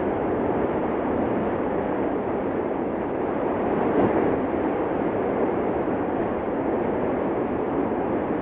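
Steady, unbroken rushing roar of the erupting Cumbre Vieja volcano, with no distinct blasts.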